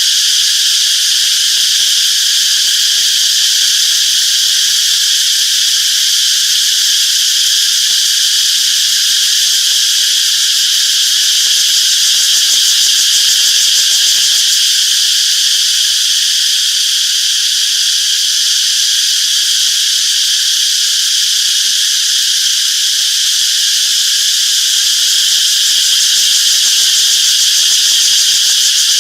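A chorus of cicadas buzzing, a dense, steady, high-pitched drone.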